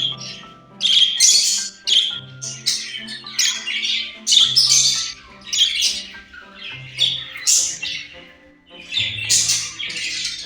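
Pet budgie chattering and squawking in short scratchy bursts, roughly one a second, over soft background music.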